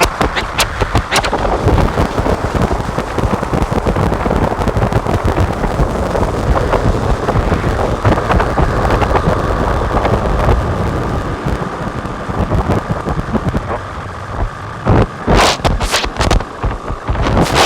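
Modular synthesizer (Make Noise Strega, Maths and Morphagene) played through Death By Audio Evil Filter and Absolute Destruction pedals: a dense, rumbling distorted noise drone, with a faint steady tone through the middle. A run of sharp clicks comes in near the end.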